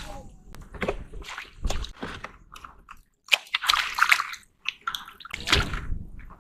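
Irregular splashing and squelching of seawater and wet mud, coming in uneven bursts, with two short breaks to silence a little after halfway.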